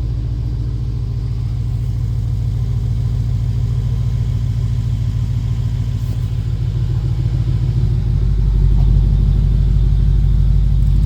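BMW 550i's 4.4-litre twin-turbo V8 idling warm through a muffler-delete exhaust: a steady deep rumble. The low rumble grows louder about eight seconds in.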